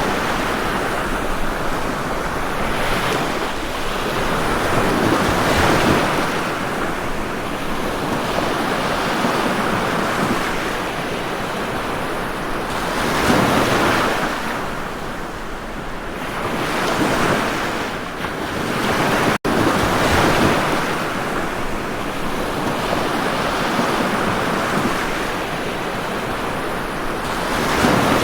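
Ocean waves surging and washing onto shore, a steady surf with a louder swell every few seconds. A split-second dropout about two-thirds of the way through.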